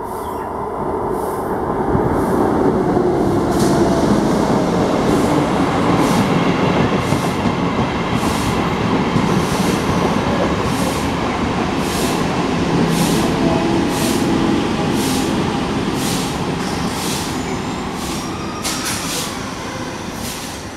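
Electric multiple-unit local train passing along the platform track: a steady rumble of wheels on rails with evenly repeating pairs of clicks as the wheels cross rail joints. It builds about two seconds in, stays loud while the coaches go by, and eases off near the end.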